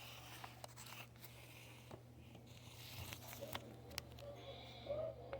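Faint, scattered clicks and soft crunching rustles, with a couple of short soft pitched sounds near the end.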